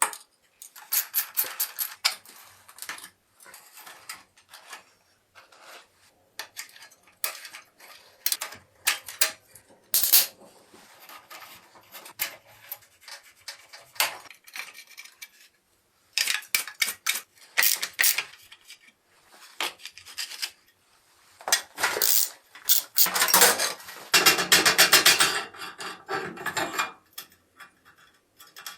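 Hand work on metal parts: irregular clinks and knocks of metal pieces being handled, with bouts of scraping and rubbing, the longest and loudest stretch of scraping near the end.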